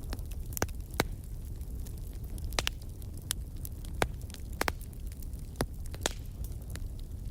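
Wood fire crackling, with sharp pops scattered irregularly over a steady low rumble; a handful of louder pops stand out, two of them close together about halfway through.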